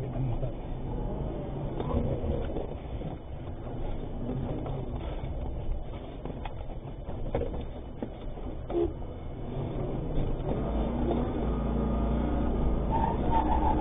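Vehicle engine and road noise heard from inside the cab: a steady low rumble that grows louder over the last few seconds.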